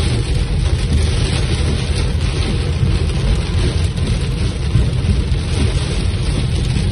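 Heavy rain pelting a car's windshield and body, heard from inside the car, over a steady low rumble.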